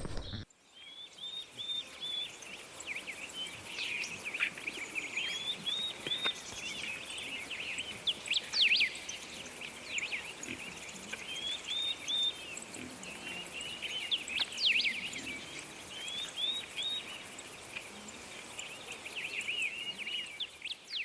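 Woodland birdsong: several birds singing, with short chirps and quick repeated trilled phrases overlapping one another.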